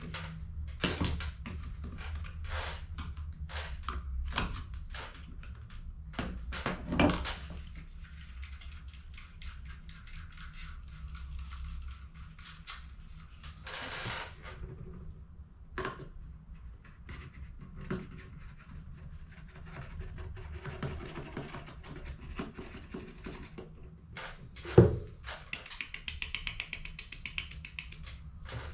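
An HP CE285A toner cartridge being handled and worked on by hand: a run of clicks and knocks over the first several seconds, then quieter scraping and rustling. One sharp knock about twenty-five seconds in is the loudest sound.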